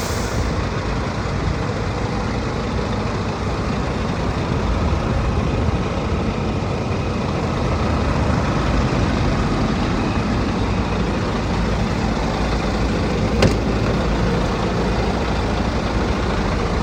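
Scania R420 truck's diesel engine running steadily, with one short sharp click late on.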